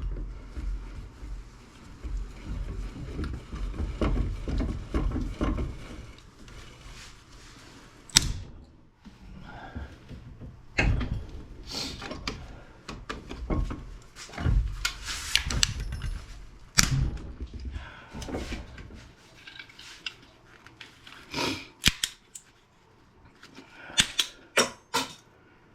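Plastic parts of a small appliance being handled and pried apart by hand: rubbing and fumbling, with sharp clicks and knocks now and then and a few quick clicks near the end.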